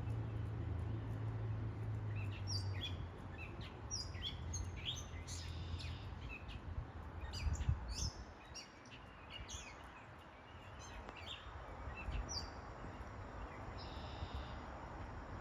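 Many short, high bird chirps in quick succession, starting a couple of seconds in and thinning out near the end, over a low steady hum that fades about halfway.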